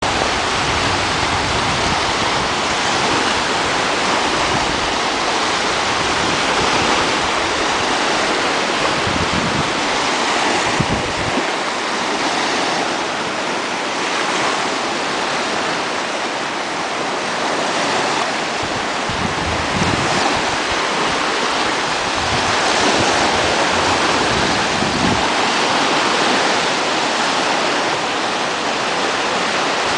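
Waves on a mountain lake breaking on the beach: a continuous rush of surf that swells and eases every few seconds, with wind buffeting the microphone now and then.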